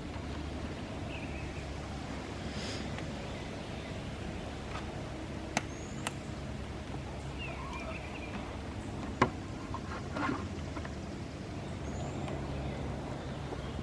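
Hens clucking softly over a steady low hum, with a few sharp clicks and knocks; the loudest knock comes about nine seconds in.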